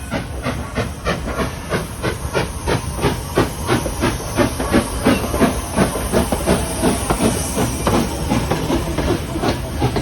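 4-4-0 steam locomotive No. 7 working under steam, its exhaust chuffing in an even beat of about four a second over a steady steam hiss.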